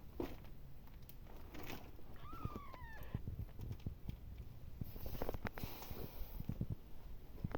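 A newborn kitten gives one short falling mew about two seconds in, amid scattered soft clicks, knocks and rustling.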